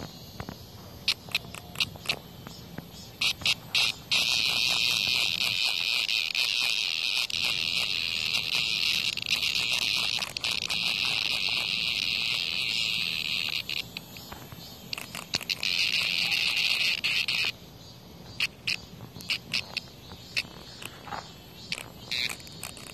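Cicada's distress buzz while a hornet attacks it. It starts as short broken buzzes, then becomes a long, loud, continuous buzz lasting over ten seconds. That buzz stops suddenly and gives way to short bursts again, and the long buzz starts up once more near the end.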